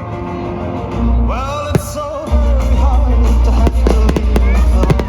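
Loud music with singing, a heavy bass beat coming in about halfway through, with fireworks bursting and cracking over it, the bangs growing more frequent toward the end.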